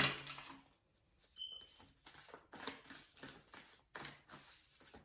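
A deck of tarot cards being shuffled by hand: a run of soft, irregular shuffling strokes, the first one the loudest, with a short high tone about one and a half seconds in.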